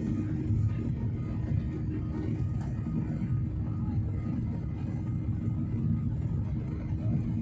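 Steady low rumble of an airliner's engines and airflow heard inside the cabin, with a few faint steady tones above it.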